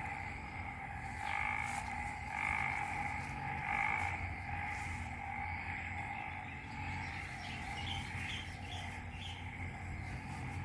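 A racket of many frogs calling together after heavy rain, a steady droning chorus. A few louder pulsing calls stand out in the first few seconds, and short chirps come later.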